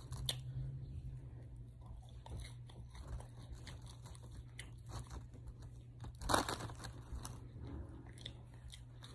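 Quiet chewing and biting of French fries, with the paper wrapper crinkling as fries are picked from it, and one louder moment about six seconds in, over a faint steady low hum.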